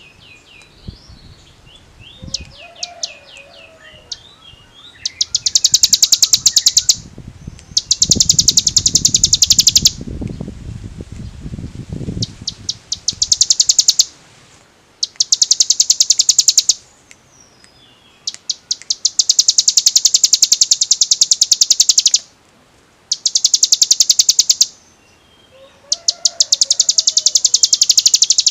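Ciblek gunung, a prinia, singing its rapid drilling 'ngebren' trill: loud bursts of fast, evenly repeated high notes, each lasting one to three seconds, over and over with short pauses between. A low rumble sits underneath for a few seconds in the middle.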